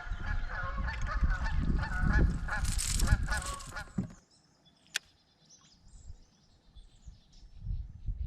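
Geese honking in a rapid run of calls, over a low rumble of wind or handling noise, stopping about four seconds in. After that it is nearly quiet, with faint high bird chirps.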